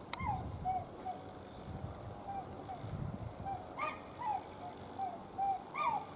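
A bird calling in about ten short, repeated calls, some coming in quick pairs, over wind rumbling on the microphone.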